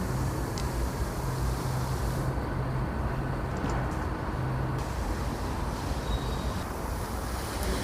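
A vehicle's engine running: a steady low rumble with a constant low hum.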